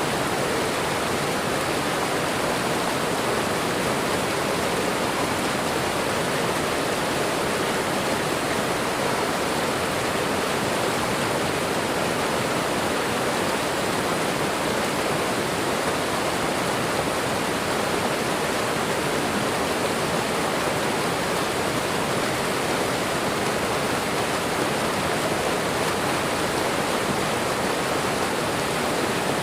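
A waterfall and running water rushing steadily, an even, unchanging roar of falling water.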